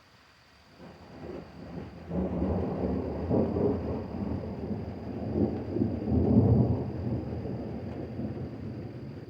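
Deep rolling thunder: a low rumble that builds about a second in, swells with several peaks, and slowly dies away near the end.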